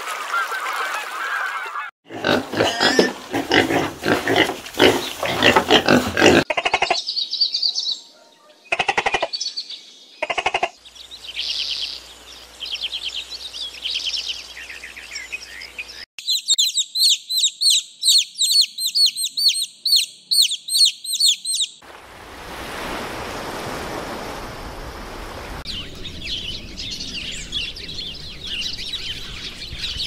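A run of short animal-sound clips cut one after another: a greylag goose honking for the first two seconds, then assorted bird calls and chirps. In the middle comes a fast, even series of high peeps from young chickens, lasting about six seconds.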